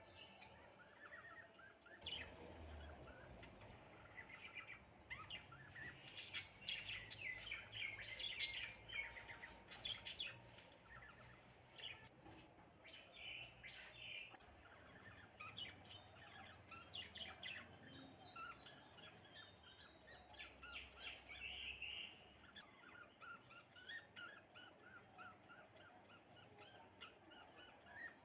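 A flock of house sparrows chirping, many short, overlapping chirps, busiest a few seconds in and thinning toward the end.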